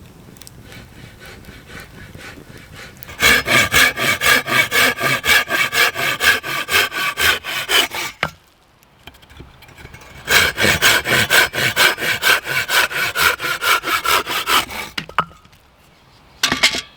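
Hand saw cutting through wood in quick, even strokes, about four or five a second, in two spells of roughly five seconds each with a pause between. A short rasp sounds near the end.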